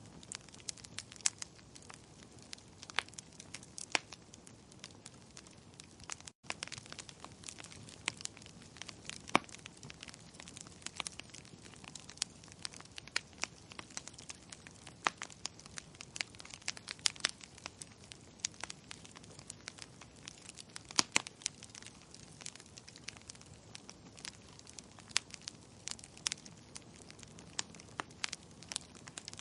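Wood fire in a fireplace crackling, with irregular sharp pops and snaps over a soft steady hiss. The sound cuts out for a split second about six seconds in.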